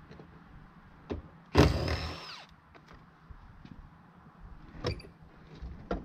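Knocks and clanks of tools and metal parts as a pickup-truck seat is worked loose, with one loud scraping squeal about a second and a half in.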